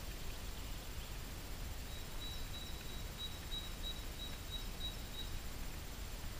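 A bird in the forest singing a row of about ten short, high, evenly repeated notes, from about two seconds in to about five seconds. Under it runs a steady low outdoor rumble.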